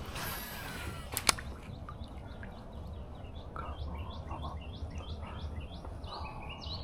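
A songbird calling in a fast run of short, falling chirps that starts about two and a half seconds in, over a low steady rumble. There is a single sharp click about a second in.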